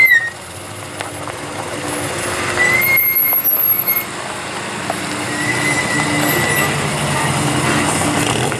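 Vehicle engines running, with high-pitched squeals: one at the very start, a louder one from about two and a half to four seconds in, and a fainter one around five to six seconds in.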